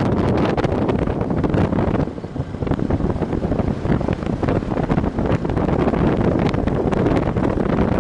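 Heavy wind buffeting the microphone on a moving motorcycle, with the Viper V250C cruiser's engine running underneath. It eases briefly about two seconds in.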